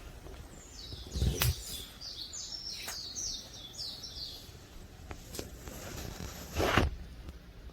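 A small songbird singing a run of quick, repeated high chirping notes for about four seconds. Two dull knocks sound, one about a second in and a louder one near the end, over a low steady background hum.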